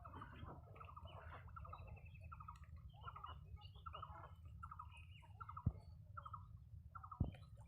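Domestic fowl calling: many short calls in quick succession over a steady low background hum, with a couple of sharp knocks late on.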